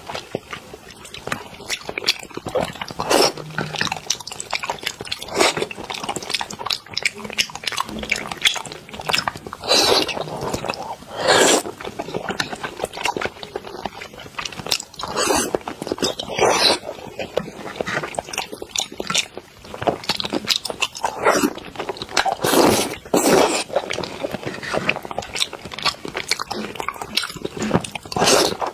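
Close-miked chewing and mouth sounds of eating raw salmon sashimi dipped in soy sauce, coming in irregular bursts.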